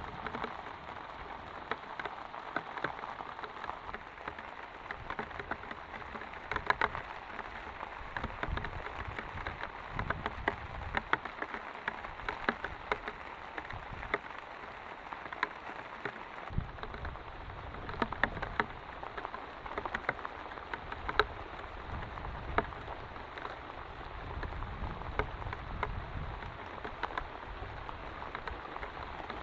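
Steady rain, with many separate drops ticking sharply close by. A low rumble joins in about halfway through.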